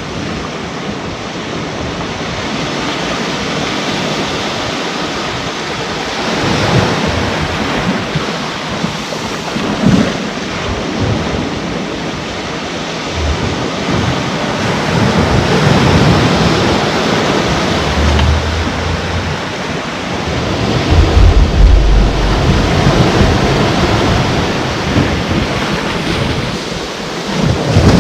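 Sea waves breaking and washing on the shore, a continuous surge that swells and falls, with deeper rumbling surges in the second half. Wind buffets the microphone.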